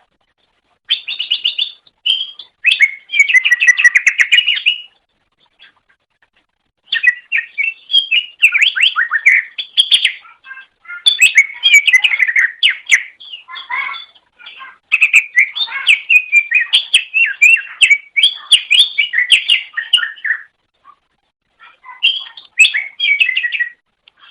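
Cucak ijo (greater green leafbird) singing a loud, rapid, varied chattering song of quick chirps and whistled notes. The song comes in about five bursts of a few seconds each, with short pauses between them.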